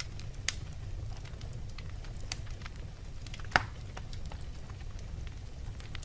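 Wood fire burning in a fireplace: a steady low rumble of the flames with scattered small crackles, and a sharp pop about half a second in and a louder one a little past halfway.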